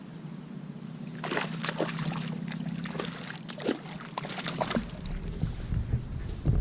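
Water splashing and sloshing beside a kayak, a run of irregular splashes lasting about three and a half seconds, followed by wind rumbling on the microphone.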